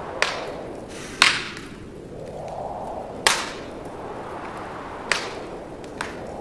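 Wood fire in a fireplace crackling, with five sharp pops from the burning logs, the loudest about a second in and just past three seconds. Underneath, a rushing of wind swells and fades every few seconds.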